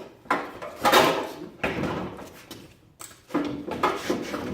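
Objects being handled and shifted about: several bouts of scraping and clattering, the loudest about a second in.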